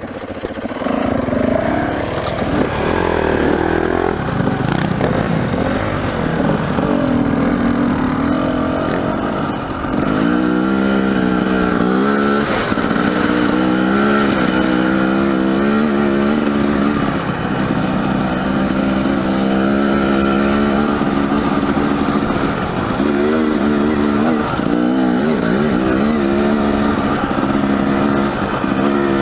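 Dirt bike engine under way, the rider working the throttle: the engine pitch climbs and drops back again and again as it accelerates and eases off, settling into a steadier pull from about ten seconds in.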